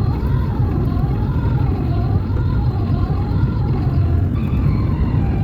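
A car driving: a steady low rumble of engine and road noise, with a faint wavering higher tone running over it.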